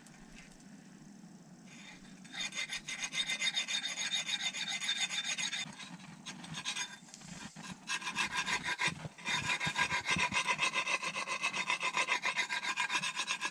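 Hand saw cutting through wood with quick back-and-forth strokes, about three or four a second, in two runs: starting about two seconds in, pausing briefly with a few knocks at about six seconds, then sawing on to the end.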